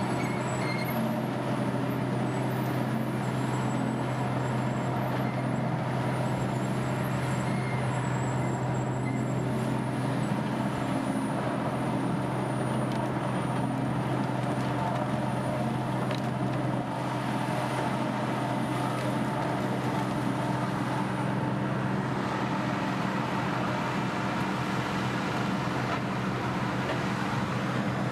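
Large diesel-powered horizontal wood grinder running steadily, its engine holding an even, unbroken hum.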